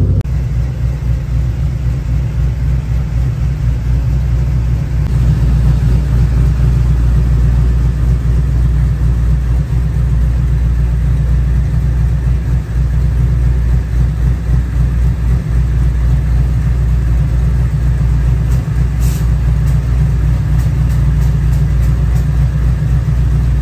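Chevrolet LQ4 6.0-litre V8, swapped into an Infiniti G35, running steadily with a deep, continuous rumble, a little louder after about five seconds.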